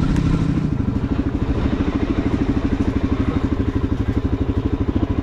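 Suzuki DR-Z400SM's single-cylinder four-stroke engine running at low revs with an even pulsing rhythm as the bike is ridden slowly through mud. A smoother steady hum underneath fades out about half a second in.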